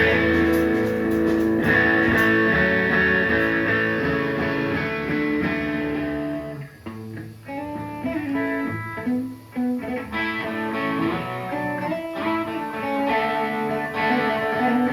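Guitar played live: held chords ring for the first few seconds, then single notes are picked one after another at changing pitches.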